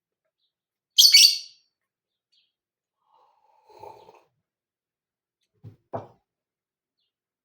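A lovebird gives one loud, shrill chirp about a second in. A faint, lower sound follows near the middle, and two short soft knocks come near the end.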